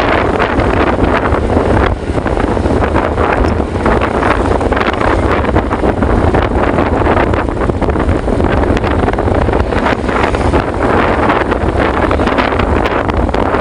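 Wind buffeting the microphone: a loud, steady rumbling rush with constant crackling gusts.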